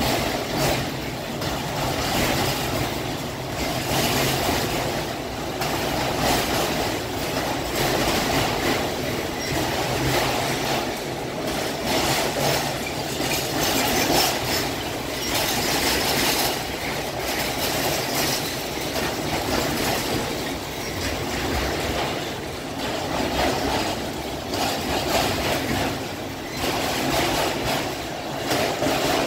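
Loaded autorack freight cars rolling past close by: the steady rumble and rattle of steel wheels running on the rails, the level swelling and easing slightly as the cars go by.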